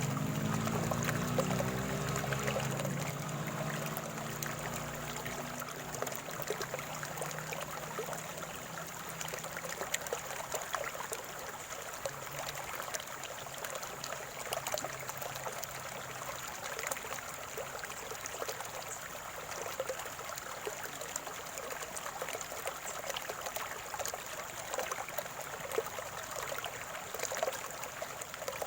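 Shallow flowing water trickling and gurgling steadily, full of small splashes and drips. The tail of a piece of music fades out over the first few seconds.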